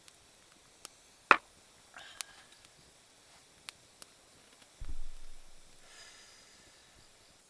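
A few scattered handling clicks and knocks: one sharp click about a second in, a dull low thump around the middle, and faint light ticks in between.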